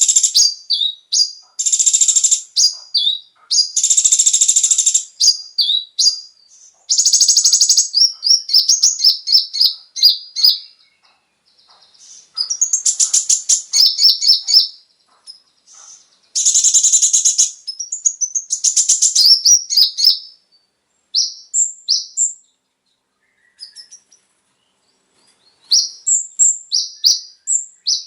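Kolibri ninja (konin) sunbird song: loud, very high-pitched rapid trills and sharp chips in bursts of a second or two, broken by short pauses, with a longer lull a little past the middle.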